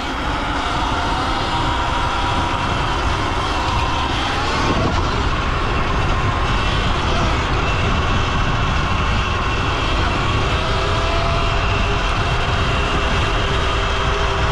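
Electric dirt bike on the move: heavy wind noise on the microphone with a faint electric-motor whine that shifts a little in pitch with speed.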